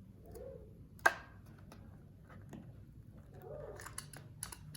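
A sharp plastic click about a second in, then a few lighter clicks and handling noises near the end, as a die-cast toy car's blister packaging is handled.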